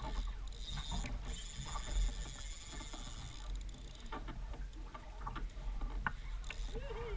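Fishing reel ratcheting in a fast run of clicks for the first few seconds, with scattered knocks.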